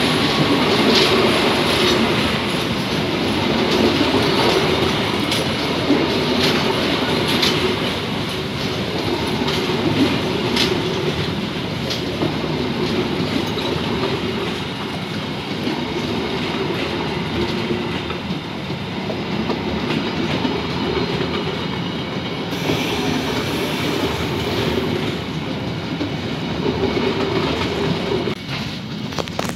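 Gajayana passenger train rolling slowly past, carriage wheels clicking over the rail joints every second or two over a steady rumble. The sound falls away near the end.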